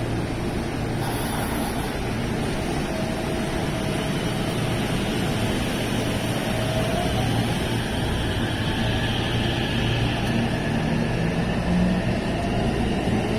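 JR West 225 series electric train accelerating, with a steady low rumble and a motor and inverter whine that climbs slowly in pitch as it gathers speed.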